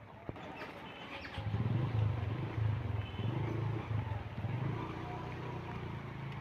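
A motor vehicle's engine running with a low, slightly pulsing drone that comes in about a second and a half in, after a few light clicks.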